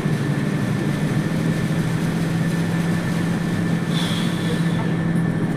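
A motor running steadily, a constant low engine hum over a noise bed.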